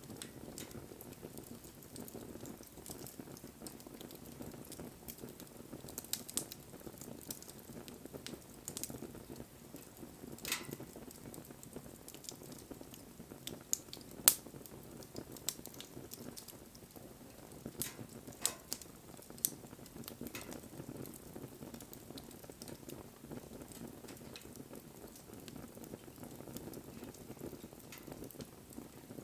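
Wood fire burning: a steady low rumble of flames with scattered sharp crackles and pops, the loudest about fourteen seconds in.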